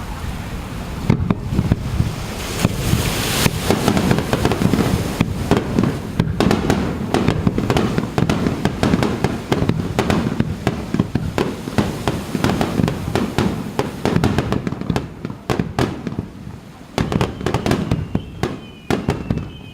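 Fireworks display: a dense, rapid barrage of bursts and crackles over deep booms, thinning out in the last few seconds.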